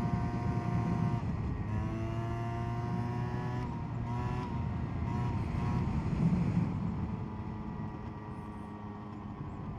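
SYM Jet2 50 scooter's two-stroke 50 cc engine running under way, its pitch dipping and rising with the throttle several times, then settling and growing quieter near the end.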